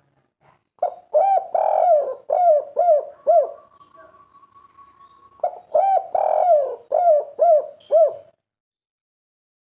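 Spotted dove cooing: two phrases of repeated short coo notes, the second beginning about halfway through, each a run of five or six notes.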